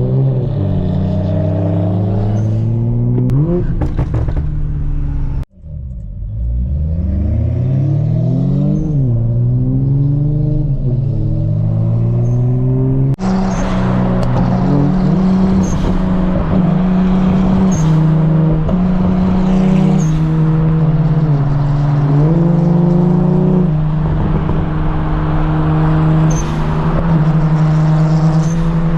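Loud car engine and exhaust revving and accelerating, the pitch climbing and dropping again and again as it shifts through gears. The sound cuts off abruptly twice, and afterwards it holds a steadier, loud note with small steps in pitch.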